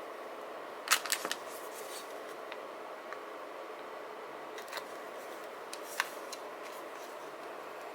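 Scissors snipping paper: a quick run of snips about a second in, then a few single snips, over a steady background hiss.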